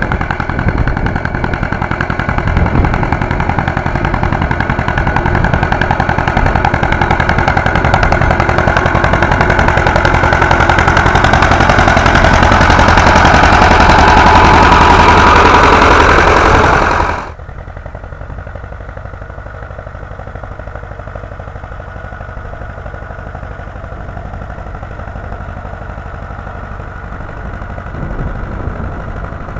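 Władimirec T-25 tractor's two-cylinder air-cooled diesel running, growing louder for about 17 seconds, then dropping suddenly to a much quieter steady run for the rest.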